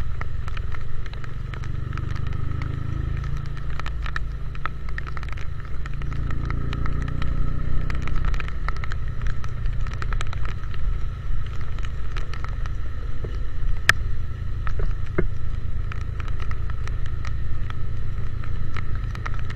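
Motorcycle riding in the rain: a steady low rumble of wind and engine, with many sharp ticks from rain striking the mic, one louder tick about fourteen seconds in.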